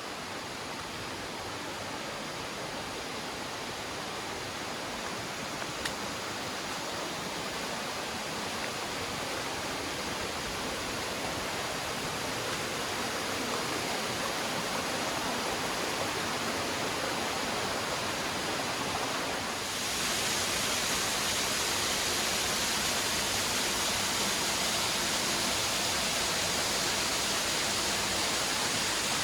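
Rushing water of a river, a steady rush that grows slowly louder and then jumps up abruptly about twenty seconds in.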